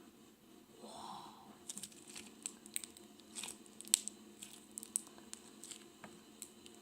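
Glitter putty being stretched and squished in the hands, giving faint, irregular small clicks and crackles.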